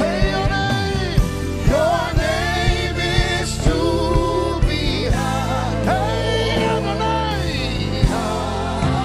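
Live gospel worship music: voices singing long, wavering notes over a band with a steady drum beat.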